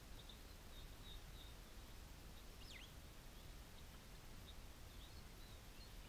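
Near silence with a low background hiss, broken by faint, short, high bird chirps scattered throughout and one quick whistle that drops and rises again about two and a half seconds in.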